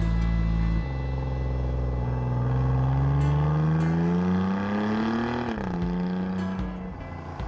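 Alfa Romeo Giulia Quadrifoglio's twin-turbo V6 through an Akrapovič exhaust, pulling hard through a gear with the engine note rising steadily for several seconds. The revs drop sharply as the driver lifts off, and a few short cracks come from the exhaust before the engine settles lower.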